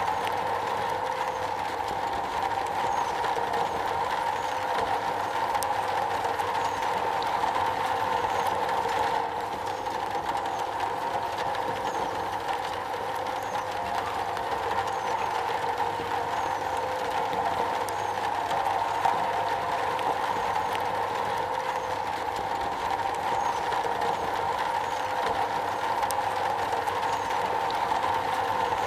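Steady rain falling on a metal roof, a dense continuous patter with a ringing middle band from the metal.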